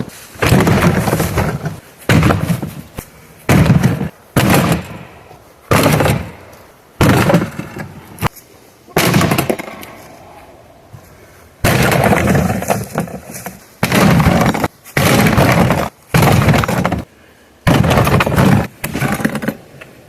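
A dishwasher being smashed apart by hand: about fifteen loud crashes and breaking sounds of metal and plastic parts, coming irregularly every second or so.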